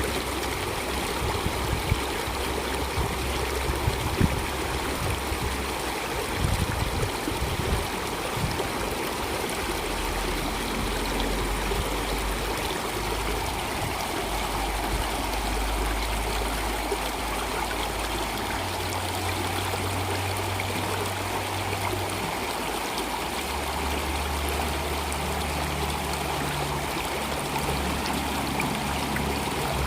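Stream water flowing and trickling steadily. A few brief low thumps come in the first eight seconds, and a deep low hum underneath shifts pitch every few seconds.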